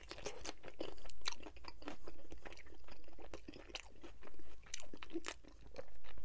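A person biting into a crispy fried chicken wing and chewing it, with many sharp crunches in quick succession.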